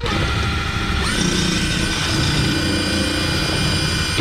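Power drill driving a small self-tapping screw through the shed's rusted sheet-steel wall, running steadily with a whine that settles to a steady pitch about a second in.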